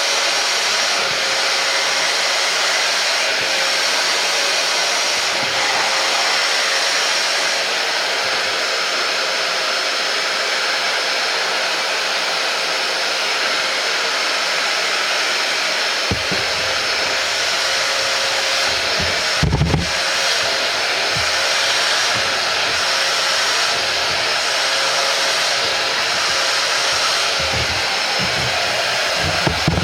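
Hoover Powerdash Go carpet spot cleaner's suction motor running steadily, a constant whining hiss as it draws rinse water out of carpet. From about halfway low bumps and rubbing join it, with one sharp knock about two-thirds through.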